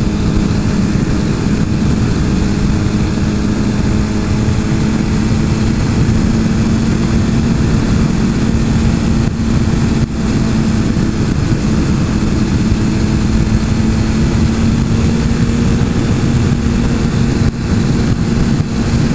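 Suzuki GSX-R 1000 inline-four engine running at a steady cruise, its note holding nearly constant pitch, under loud wind rush.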